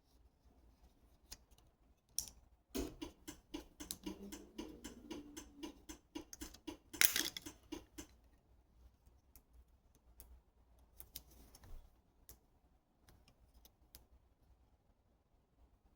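A rapid run of small clicks and taps for about five seconds, with one louder scrape-like click about seven seconds in, followed by scattered faint ticks.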